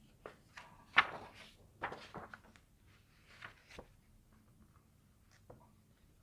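A few scattered light knocks and clicks, the sharpest about a second in, with a faint tick or two later: small handling noises of objects being moved.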